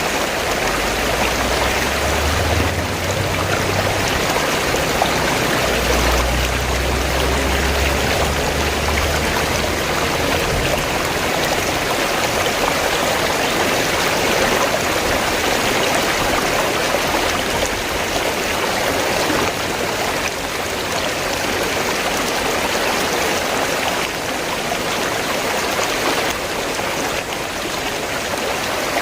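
River water flowing in a steady, even rush. A low rumble sits underneath for roughly the first third.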